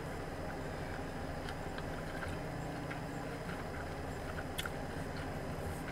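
Steady low hum of a car idling, heard inside the cabin, with a few faint clicks.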